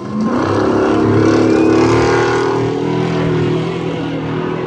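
Off-road race truck engine under hard throttle as the truck passes close by. The sound swells quickly just after the start and fades away toward the end.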